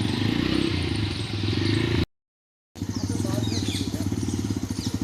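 A motorcycle engine running steadily with a fast, even firing pulse. It cuts out completely for about half a second about two seconds in, then carries on.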